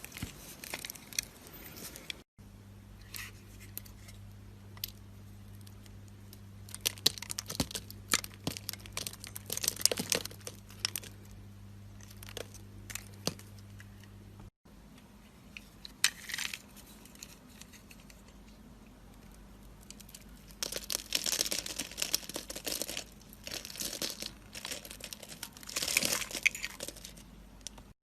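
A knife cutting into dry bar soap, giving crisp crackling and crunching in short clusters, with a steady low hum under part of it.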